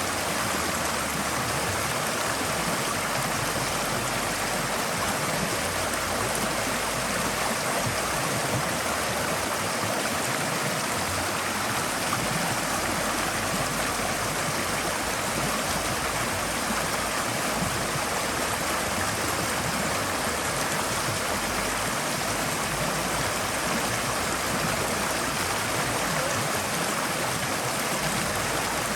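Forest stream flowing steadily, a continuous rush of water over stones with no pauses or changes.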